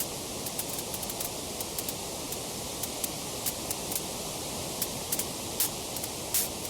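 Wood fire crackling: a steady hiss of burning with frequent sharp pops and snaps, two louder pops near the end.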